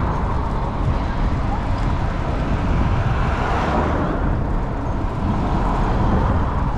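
Steady wind rumble on the microphone mixed with road traffic noise, with voices faintly in the background.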